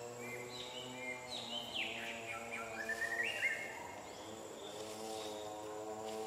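Bird calls: a run of short whistled notes that step down and then up in pitch over about three seconds, above a steady low hum.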